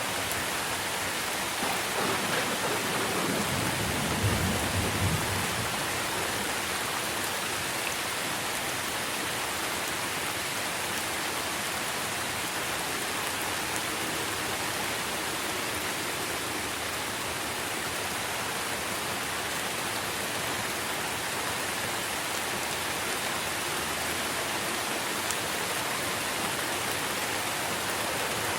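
Steady rain falling on trees, a dense even hiss of drops on leaves. A brief low rumble of thunder swells about two seconds in and fades by about five seconds.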